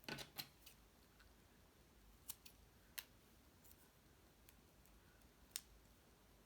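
Near silence, broken by a few faint clicks and ticks of small paper craft pieces being handled: a short cluster at the start, then single ticks about two, three and five and a half seconds in.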